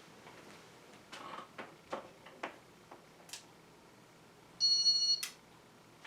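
A few light clicks, then a single electronic beep lasting about half a second, ending in a sharp click about five seconds in.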